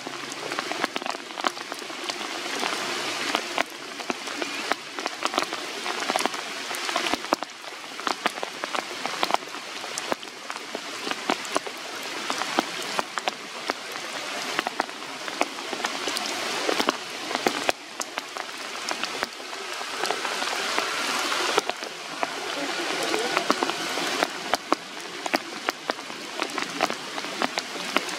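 Rain falling steadily on the leaves and branches of a tree canopy, a constant hiss studded with many sharp hits of individual drops striking leaves. The level swells and drops back every few seconds.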